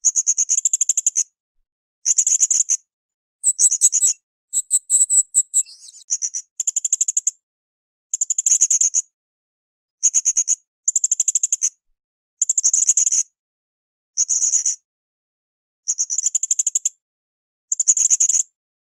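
Blue-crowned hanging parrot (srindit) calling: short bursts of fast, high-pitched chattering, each under a second long, repeated about every one and a half seconds. A higher, more varied run of calls comes about four seconds in.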